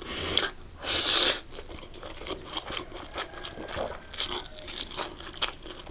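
Close-miked chewing of dry, stir-fried spicy instant noodles: wet mouth clicks and smacks, with a louder noisy burst of biting about a second in.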